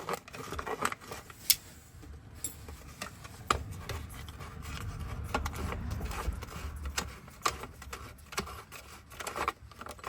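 Irregular small clicks and clinks of metal ignition-lock parts being handled and set down, with a low rumble of handling noise partway through.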